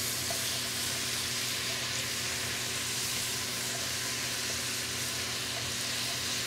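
Ground meat, jalapeños and red onion sizzling and popping steadily in a large pot on raised heat while being stirred with a spatula: the sound of the mixture starting to caramelize.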